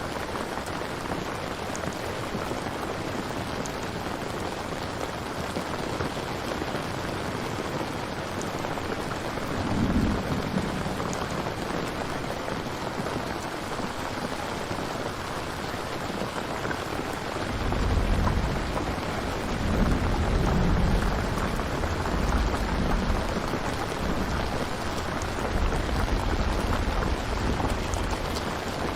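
Steady rain with thunder. A short low rumble comes about a third of the way in, then a longer rolling rumble fills much of the second half.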